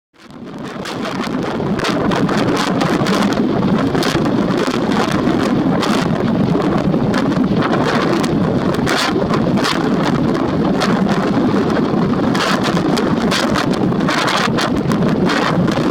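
Strong storm wind blowing over the microphone: a loud, steady rushing noise with frequent gusty buffeting bursts, fading in over the first second or two.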